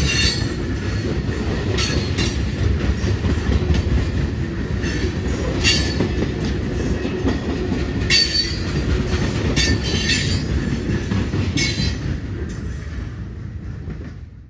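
A train rolling past: a steady rumble of railcar wheels on the rails, with short high wheel squeals every couple of seconds. The sound dies away near the end.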